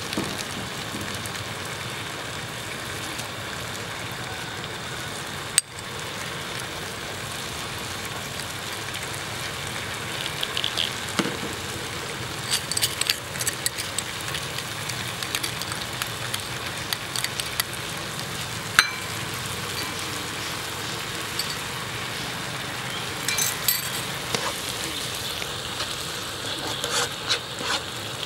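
Diced onion, potato and tomato sizzling steadily in oil in a nonstick frying pan. There is a single sharp click about six seconds in, and from about ten seconds on there are scattered scrapes and taps as a wooden spatula stirs the vegetables in the pan.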